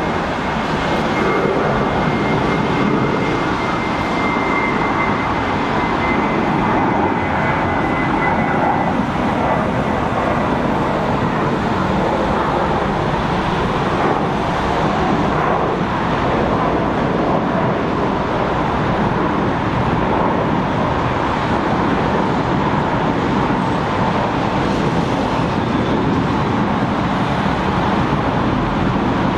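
Airbus A321 jet airliner climbing out after takeoff, its engines giving a steady rushing roar. A faint whine in it sinks slightly in pitch over the first several seconds and fades.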